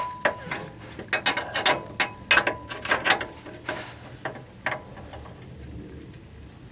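Ratchet wrench clicking in short irregular runs as a bolt is turned, stopping a little over halfway through.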